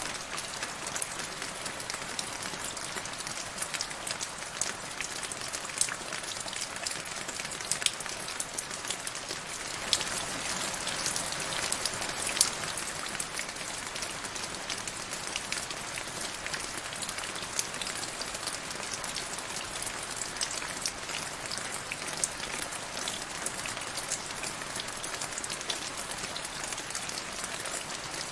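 Steady rain falling into a shallow puddle, an even hiss with many individual drop splashes ticking through it, slightly heavier around ten to thirteen seconds in.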